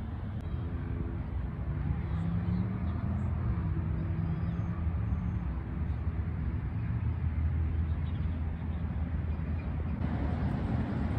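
Steady low rumble of road traffic, with a vehicle engine passing in the first half.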